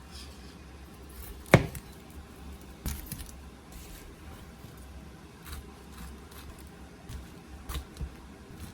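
Objects being handled: one sharp knock about a second and a half in, then a few lighter clicks and knocks.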